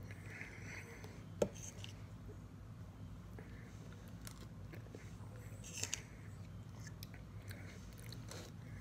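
A person chewing mouthfuls of soft, sauce-covered baked potato close to the microphone, over a steady low hum. A single sharp click about a second and a half in, and a few softer clicks near six seconds.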